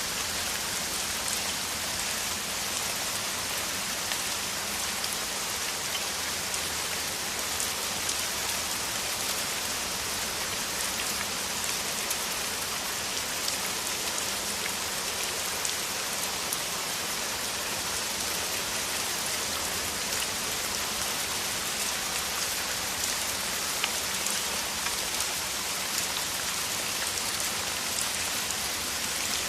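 Heavy downpour of rain: a steady, even hiss with scattered individual drop ticks.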